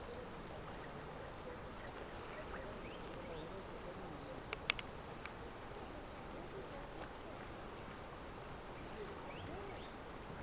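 Faint, steady outdoor background noise with a few sharp clicks about halfway through.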